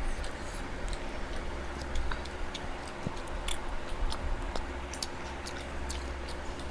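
Eating noises: scattered, irregular small clicks and smacks of people chewing food, over a low steady hum.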